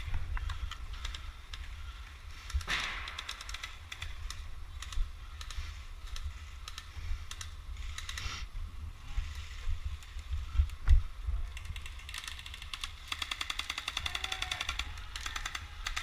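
Airsoft guns firing in rapid bursts, heard as fast clicking, with one longer even burst near the end.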